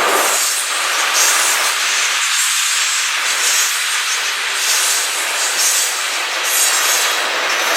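Train rolling past close by: a steady hiss of steel wheels on rail, with brighter high-pitched patches that come and go about once a second.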